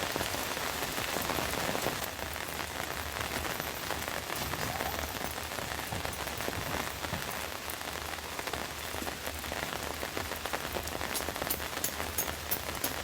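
Rain pattering steadily on a tent, with sharper single drop hits standing out near the end.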